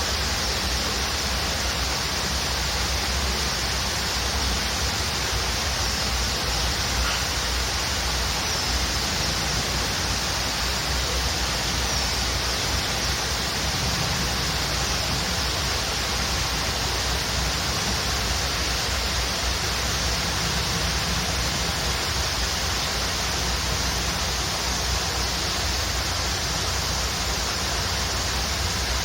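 Waterfall rushing steadily, with a couple of faint bird chirps over it.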